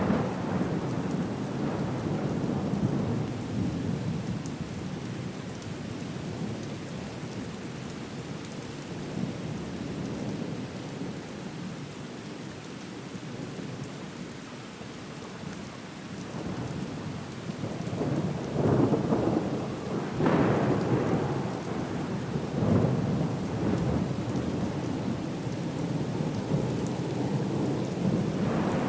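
Thunderstorm: steady rain with low rolling thunder, the rumbles swelling louder several times in the last third.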